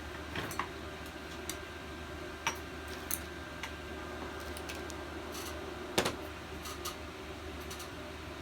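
Scattered light clicks and taps of small metal engine parts and tools being handled during a teardown, with one sharper knock about six seconds in, over a steady background hum.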